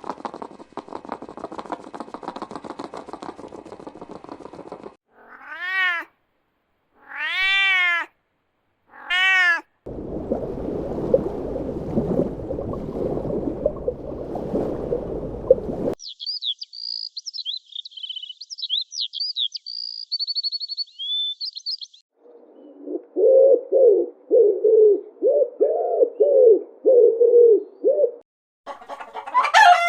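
Three separate cat meows, each rising and then falling in pitch, set among other short animal sound clips: a stretch of high chirping and a run of short, evenly spaced calls.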